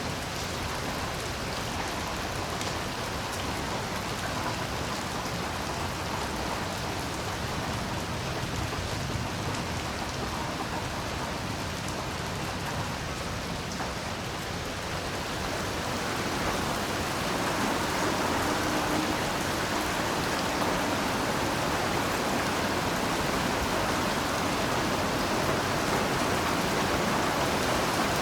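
Heavy rain falling steadily, a dense, even hiss of drops, growing louder about two-thirds of the way through.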